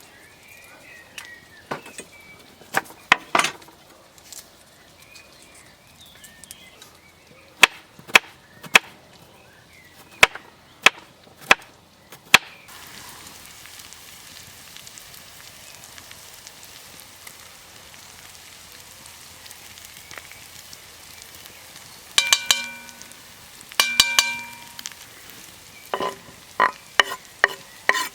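Knife chopping on a board, sharp knocks in quick runs, then food sizzling steadily in a dutch oven over the fire. Near the end, metal clanks against the pot ring out as the food is stirred.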